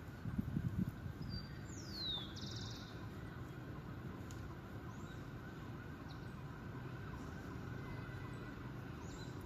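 Steady low outdoor background rumble, with a bird's short descending call followed by a buzzy trill about two seconds in, and a few faint high chirps later.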